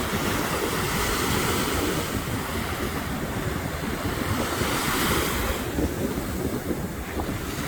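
Ocean surf breaking and washing onto a beach, swelling about a second in and again around five seconds in, with wind buffeting the microphone as a low rumble underneath.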